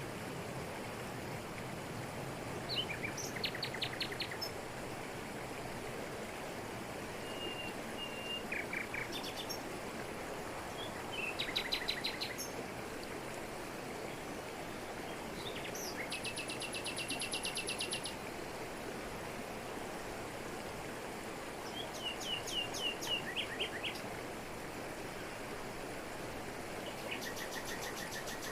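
Steady rush of a waterfall falling over rocks, with birds singing short, rapid trills every few seconds, about six times.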